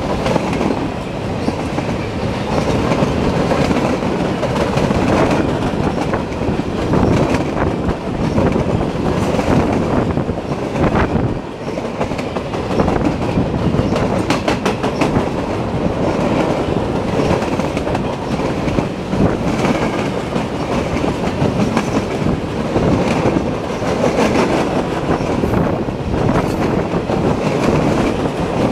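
Freight cars of a steel train rolling past close by: a steady rumble of steel wheels on the rails with rhythmic clicking over the joints, and a fast run of clicks about halfway through.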